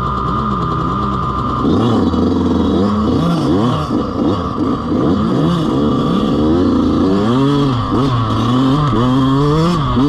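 Dirt bike engine running at a steady idle, then from about two seconds in revving up and down over and over.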